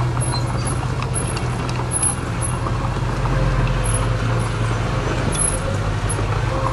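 Heavy diesel earthmoving machinery running steadily, a continuous low engine hum.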